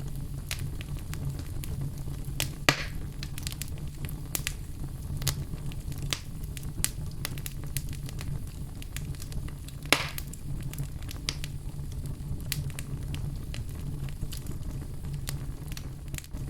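Fire crackling: a steady low rumble with frequent sharp pops and snaps, two of them louder, about three seconds in and again about ten seconds in.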